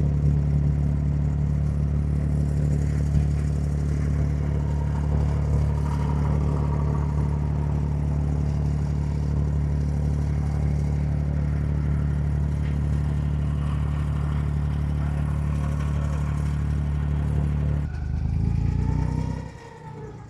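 Diesel engine of an abra water taxi running steadily at cruising speed, a low even drone heard from on board. Near the end its note shifts, then the sound drops away sharply.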